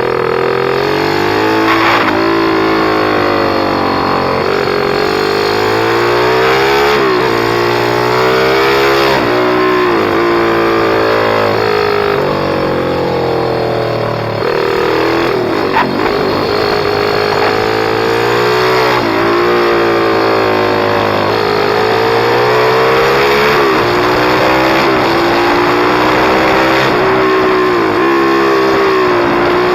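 Pit bike's small single-cylinder engine under hard riding, revving up and dropping back again and again as it shifts gears and comes on and off the throttle.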